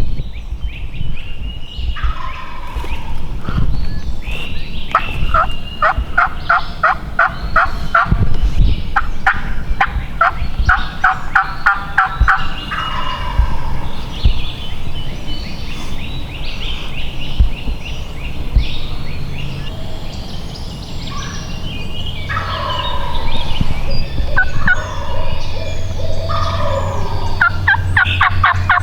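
Wild turkey gobbling repeatedly. Each call is a fast run of rattling notes, with a long stretch of calls early on and more near the end.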